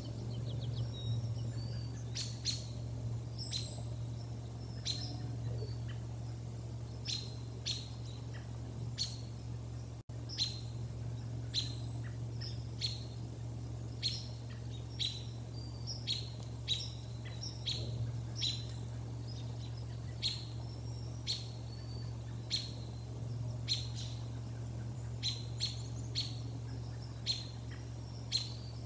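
A small bird giving short, sharp chip calls, one every half second to a second, with a steady low hum underneath.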